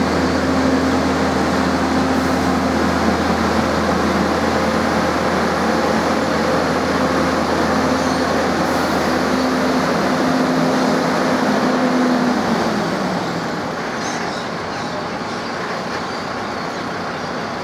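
A vehicle engine running steadily with a hum over a broad rumble. The hum stops about ten to thirteen seconds in, leaving the rumble somewhat quieter.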